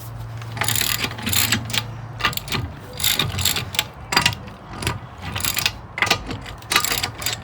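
Hand ratchet wrench clicking in irregular strokes as the wheel's lug nuts are worked loose, the clicks starting about half a second in.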